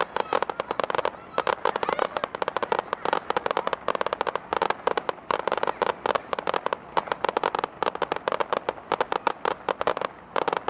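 Fireworks crackling: a dense, rapid run of sharp pops, many per second, easing briefly about a second in and again near the end.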